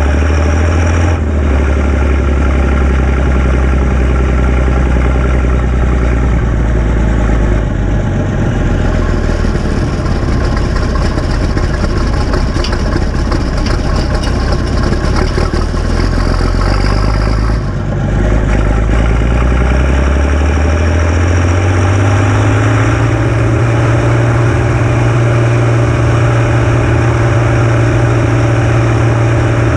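Massey Ferguson 699 tractor's turbocharged six-cylinder diesel engine running steadily, with a high thin whine over it for several seconds in the middle. About two-thirds of the way through, the engine speed rises and holds higher.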